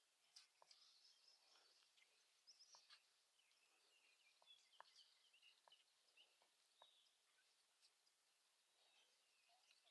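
Near silence: faint distant birdsong, short high chirps, with a few light clicks.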